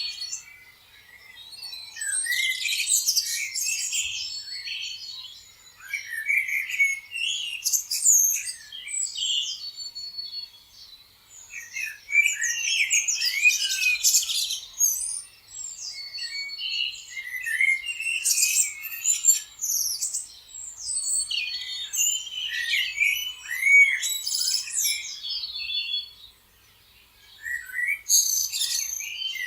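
Several small songbirds chirping and trilling over one another in bouts of a few seconds, with short lulls between.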